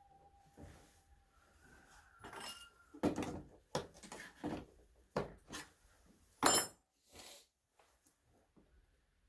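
A series of separate clicks and knocks from hard objects being handled, about eight of them, with a sharp loud knock about six and a half seconds in.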